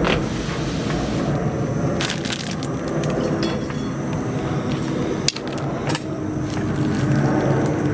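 Wood bonfire burning, with a steady low rustle and a few sharp pops and cracks from the burning wood.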